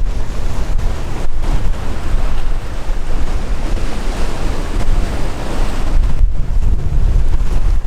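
Sea waves washing and breaking, with strong wind buffeting the microphone. The water noise swells to a peak about four to five seconds in.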